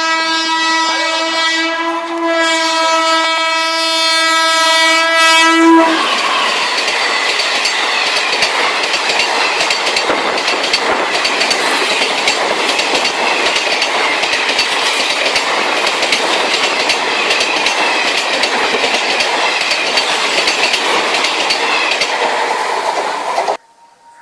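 Indian Railways train horn held in a long blast, with a brief break about two seconds in, stopping about six seconds in. Then the train runs on with a dense, loud rush and rapid clatter of wheels over the rails, which cuts off abruptly near the end.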